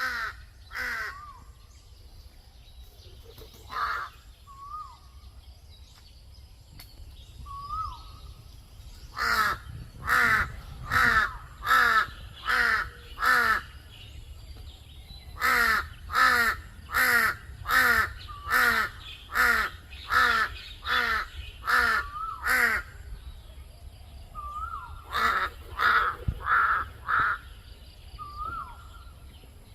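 A crow cawing in runs of loud, harsh, evenly spaced calls, about one and a half a second, the longest run about ten calls. Soft short hooked notes come in the gaps between runs.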